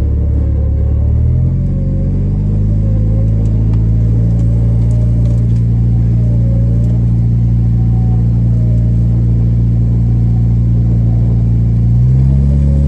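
Jeep engine held at high revs while its 9,500-pound electric winch pulls a stuck tractor free; the Jeep needs the high revs because its alternator is too small to feed the winch. The engine pitch steps up about a second and a half in and shifts again near the end, with a fainter wavering whine above it.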